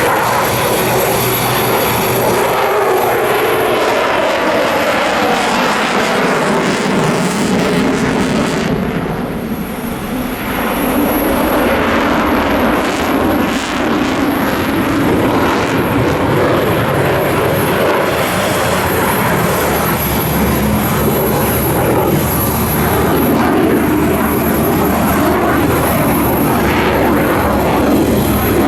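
Leonardo AW249 Fenice attack helicopter in flight, its engine and rotor noise loud and steady. Its pitch falls over the first several seconds, and it briefly eases about ten seconds in.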